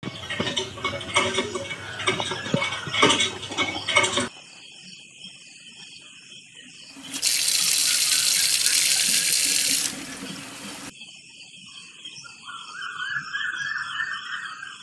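Water splashing for about four seconds, then a loud, steady spray of water lasting about three seconds. Insects chirp rhythmically in between and near the end.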